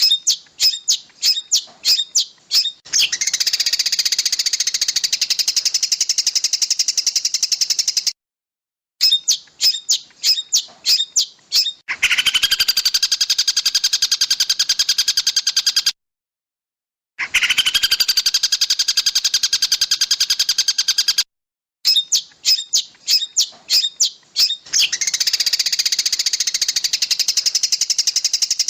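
Edited birdsong training recording of combined songbirds: runs of sharp, separate high chips lead into long, very fast trilling phrases, with sudden cuts to silence between sections. The pattern repeats several times, and one section has a lower, buzzier trill.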